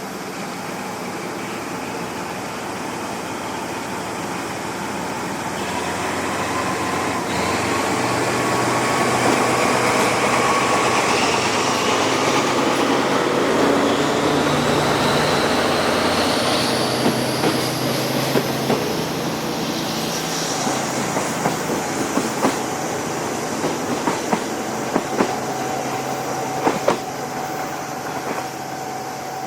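Passenger coach of a locomotive-hauled train in motion, heard from inside: a steady running rumble with tones that rise in pitch through the middle as the train gathers speed. In the second half the wheels clack over rail joints.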